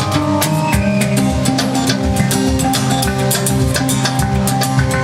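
Live band music: a drum kit keeping a busy beat over a bass line and held melody notes.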